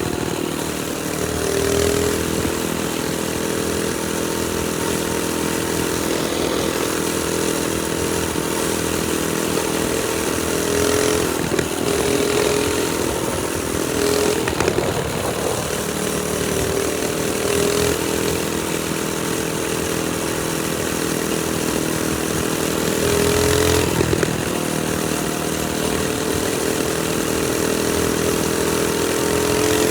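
Trailmaster Storm 200 minibike's single-cylinder four-stroke engine running under way. Its pitch holds steady, then rises and falls with the throttle a few times.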